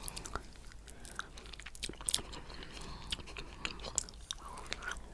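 Close-miked mouth sounds of eating coconut cheesecake: soft chewing with frequent wet smacks and clicks.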